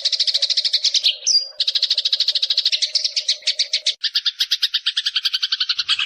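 Rapid chattering bird trill from a masteran (songbird training) recording of 'kunti' calls and fighting sparrows, about ten notes a second. A short rising chirp breaks in about a second in, and about four seconds in the trill shifts to a lower, two-toned chatter.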